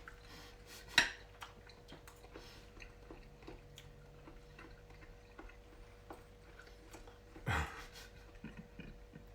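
Faint regular ticking, about two ticks a second, over a low steady hum, with one sharp click about a second in and a brief louder noise near the end.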